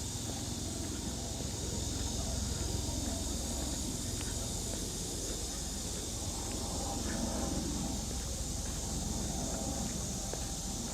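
Summer outdoor ambience: a steady high-pitched insect drone over a low, even rumble.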